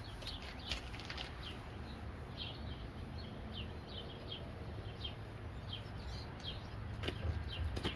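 Birds chirping: a steady run of short chirps, each falling in pitch, several in a second, over a low background rumble.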